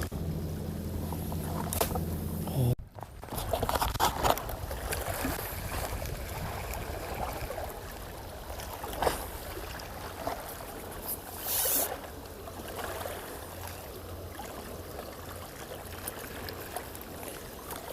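A steady low engine hum that cuts off abruptly about three seconds in, followed by a faint wash of water with scattered clicks and knocks.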